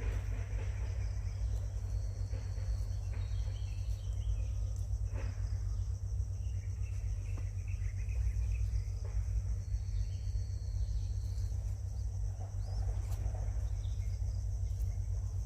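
Outdoor ambience: a steady low rumble under a constant high insect drone, with a few faint bird chirps about three seconds in and again around eight to eleven seconds in.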